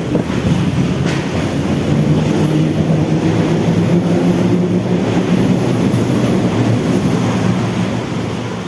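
Electric commuter train running on the line: a steady low motor hum over wheel and rail rumble, with a sharp click about a second in and the noise easing off near the end.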